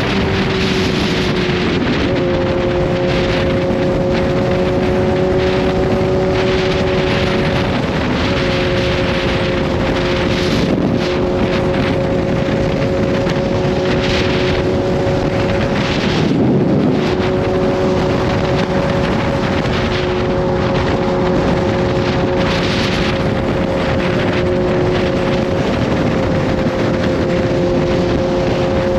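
Kawasaki Z H2's supercharged inline-four engine running at steady cruising revs, with heavy wind rush on the microphone. The engine's pitch stays nearly constant, shifting slightly about two seconds in.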